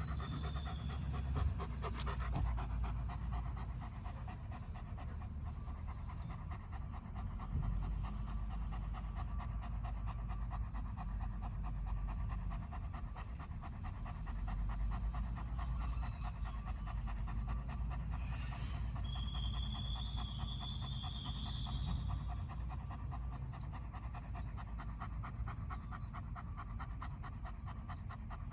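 A dog panting rapidly and steadily, in quick even breaths.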